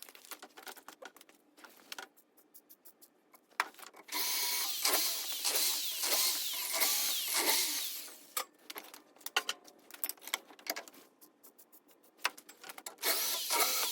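Power drill running in two stretches, about four seconds in and again near the end, with a pitch that glides as the speed changes. In between come scattered clicks and knocks of tools and parts being handled.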